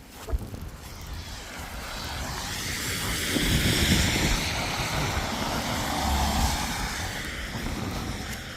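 A vehicle passing by: a wash of tyre and engine noise that swells over the first few seconds, peaks around four seconds in and slowly fades, with wind buffeting the microphone.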